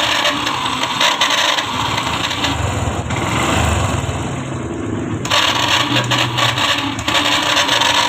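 Yamaha FZ V2 motorcycle being started on its electric self-starter, with a loud, harsh grinding rasp from the starter motor, which is damaged. The grinding eases about two and a half seconds in, leaving a lower engine sound, and returns about five seconds in.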